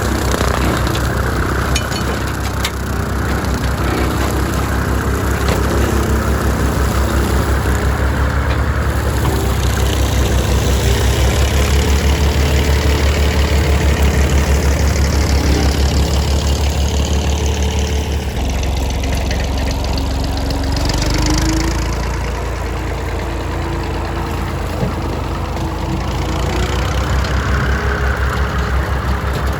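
Small tractor's engine running continuously with a low, pulsing rumble; its note shifts about two-thirds of the way through.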